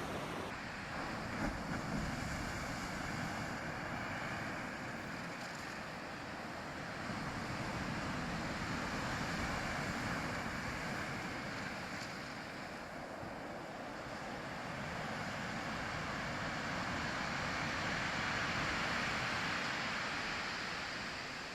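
Ocean waves washing on a shore: a steady rushing surf that swells and eases slowly, twice.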